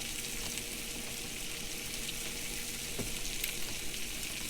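Sausage, onions and green peppers frying in a pan: a steady sizzle with a few small crackles.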